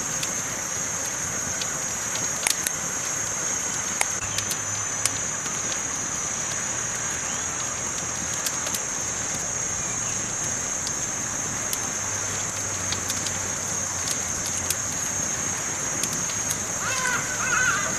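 Campfire burning, a steady hiss with scattered sharp crackles and pops from the burning wood. A brief wavering call is heard near the end.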